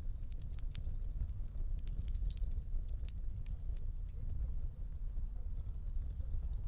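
Wood fire in a fireplace crackling: many quick sharp pops and snaps over a low steady rumble of the flames.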